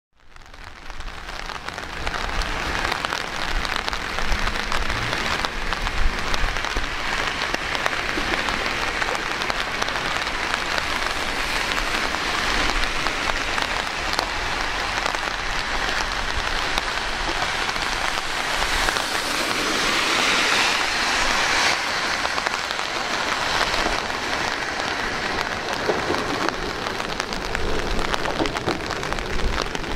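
Steady rain falling, a continuous even hiss that fades in over the first couple of seconds and swells a little about two-thirds of the way through.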